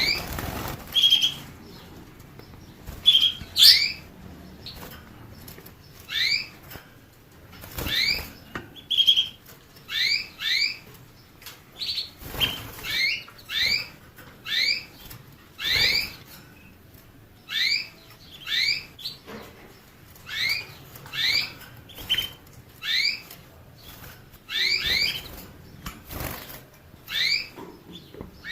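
A small finch calling: short, quick upswept chirps, often in close pairs, repeated about once or twice a second. A few brief broad rustling bursts, like wing flutters, fall in among the chirps.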